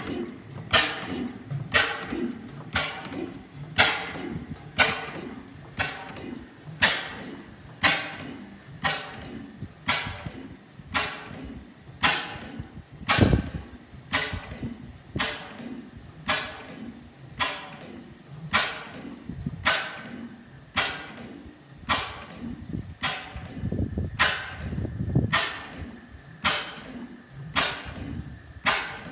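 5 HP Hornsby-Akroyd hot-bulb oil engine running slowly, with a sharp, regular knock about once a second.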